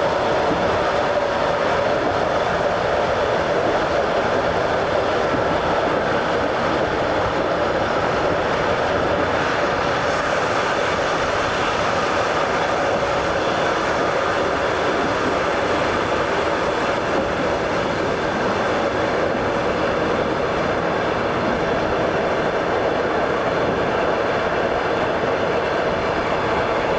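Train running along the rails: steady noise of its wheels on the track, with a little more hiss in the treble from about ten seconds in.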